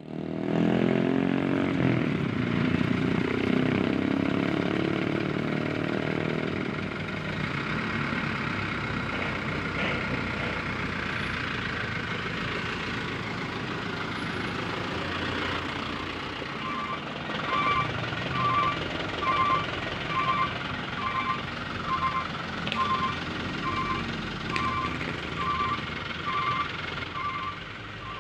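Heavy truck engine running, loudest in the first few seconds. About halfway through, a truck's reversing alarm starts beeping steadily, a little more than once a second.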